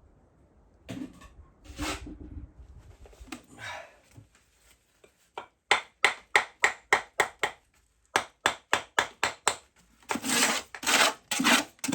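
Rhythmic scraping strokes against wood, about three a second, followed by a few longer rubbing strokes near the end.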